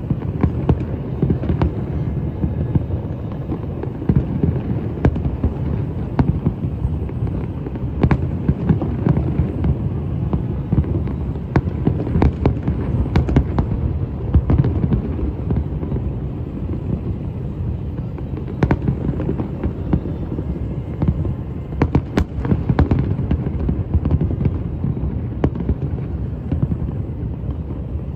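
Fireworks going off without a break: a dense, rolling rumble of booms with sharp cracks scattered through it, several louder cracks about halfway through and again past two-thirds.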